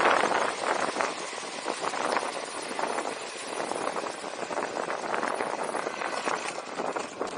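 Wind buffeting the microphone: a rough, gusting rumble and rustle, loudest at the start and easing about a second in.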